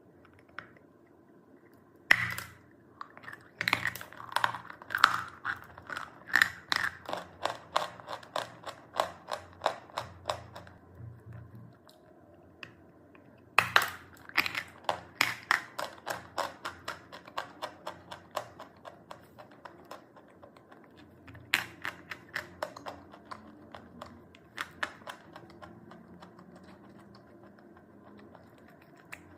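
Chalk being bitten and chewed close to the microphone: a loud crisp snap, then a quick run of dry crunches, three times over with short pauses between.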